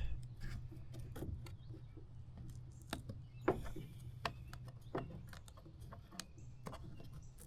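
Scattered light clicks and taps of a screwdriver working at the rubber gasket and plastic housing of a tail light, over a faint steady low hum.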